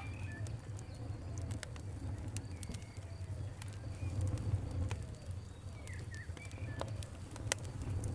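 Fire crackling, with many sharp, irregular pops over a steady low rumble. Bird calls sound in the background.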